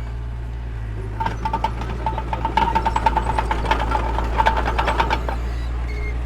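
Diesel engine of a small crawler bulldozer running steadily, with rapid metallic clanking and rattling from about a second in until near the end.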